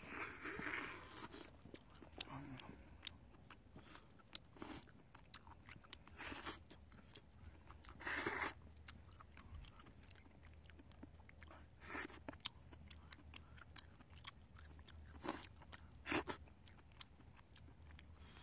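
A person chewing and biting king crab meat close to the microphone: fairly quiet mouth sounds with many scattered short clicks and a few louder bursts.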